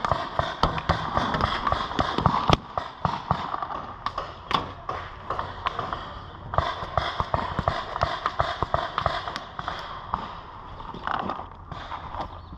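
Paintball markers firing, with irregular sharp pops and paintballs smacking around the players' cover, rapid in places.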